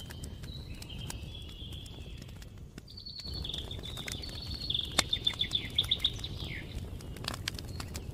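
Songbirds singing, with one bird's phrase in the middle rising into a loud run of quick repeated notes, about six a second, that ends after a few seconds. Campfire crackling with sharp scattered pops underneath.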